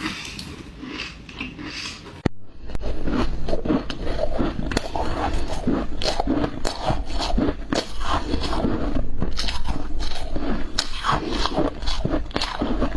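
Close-miked biting and chewing of ice: dense, irregular crunches and cracks. It is quieter for the first two seconds, then comes a brief break, after which the crunching runs on without a pause.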